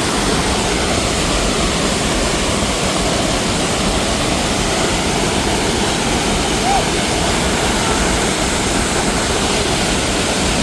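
Loud, steady rush of mountain water pouring over rocks, as at a waterfall.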